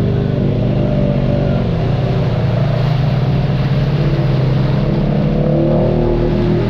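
Off-road vehicle's engine running on a trail, its pitch easing off early then climbing again near the end as the throttle changes.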